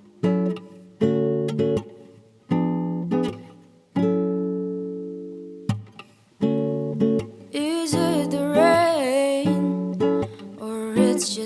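Acoustic guitar strumming chords that ring out and fade between strokes, one held for over a second. Past the middle, a singing voice joins over the guitar.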